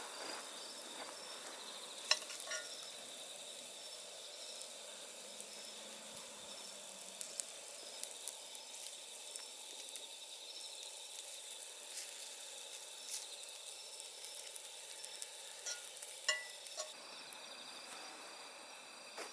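Steak sizzling over an open wood fire: a steady sizzle with scattered sharp crackles and pops.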